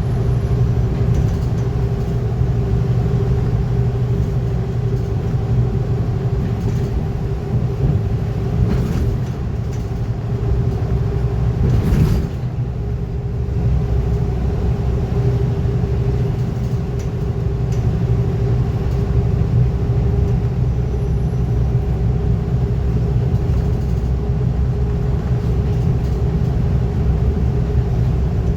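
Scania N230UD double-decker bus under way, heard from on board: a steady engine and road rumble with a constant whine, and a brief knock about twelve seconds in.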